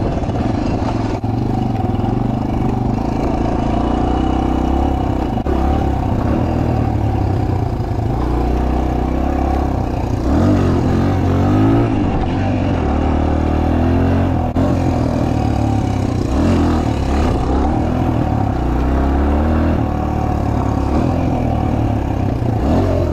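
2003 Suzuki DR-Z125L pit bike's single-cylinder four-stroke engine running steadily, with a few throttle blips that rise and fall in pitch about halfway through.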